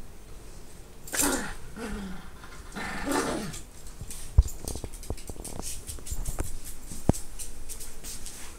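Miniature Pinscher making three short vocal sounds that fall in pitch while playing roughly with a toy. Then comes a run of quick clicks and rattles from the toy, with two sharp knocks, the loudest about four and a half seconds in.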